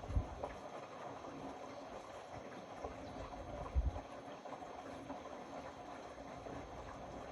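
Indesit Innex BWE 91496X washing machine running, with a steady wash noise and the drum tumbling. Two low thuds stand out, one just after the start and one a little under four seconds in.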